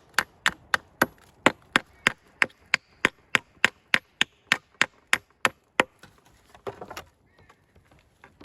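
Rapid, even hammer blows on nails in a wooden board, about three a second, stopping about six seconds in; a short rustle of handling follows.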